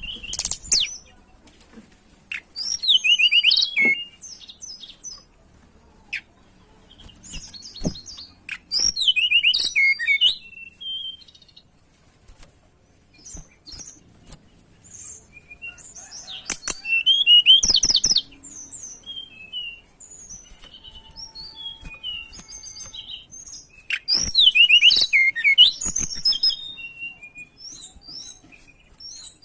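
A tledekan gunung songbird sings in loud bursts of rapid, high, twisting notes, about four bursts with softer scattered notes between them. It is the kind of vigorous song used as a lure recording to set other birds singing.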